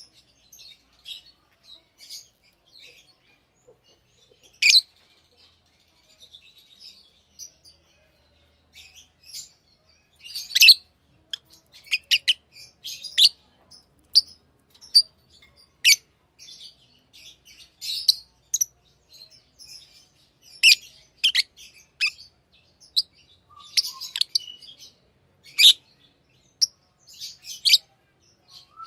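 Pet lovebirds chirping: short, sharp, high-pitched calls, scattered through the first ten seconds and then coming much more often, several a second at times.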